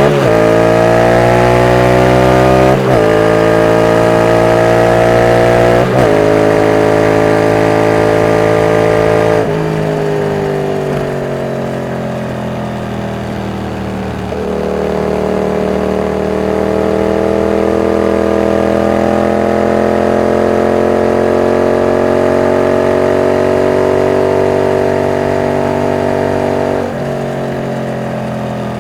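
Yamaha MT-07's 689 cc CP2 parallel-twin engine and exhaust pulling hard. The pitch climbs and drops sharply at quick gear changes about every three seconds, then falls away as the throttle is rolled off. It picks up again with a long, slow rise and changes gear once more near the end.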